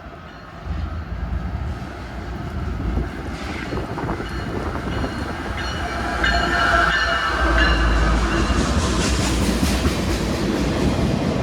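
CSX diesel freight train approaching and passing, its locomotives rumbling and growing steadily louder, with wheels clacking on the rails. Thin high-pitched tones come in about four seconds in and fade a few seconds later.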